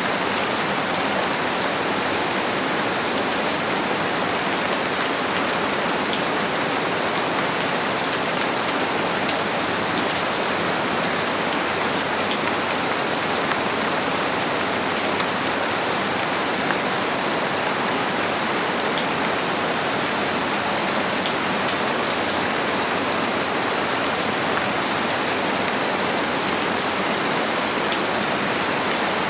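Steady heavy rain falling, a dense even hiss with the fine patter of many individual drops and no thunder.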